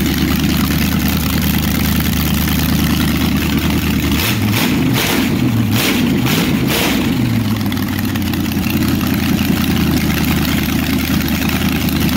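Chevrolet 400 small-block V8 running on a test stand through open headers: it idles, is revved with a few quick throttle blips about four seconds in, and settles back to a steady idle.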